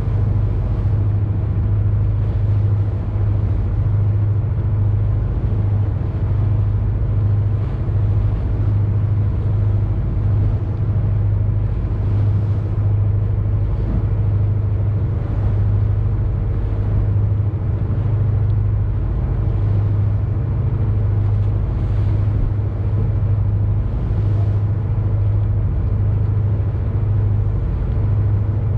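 Boat engine running steadily, a constant deep drone with an even noisy wash above it.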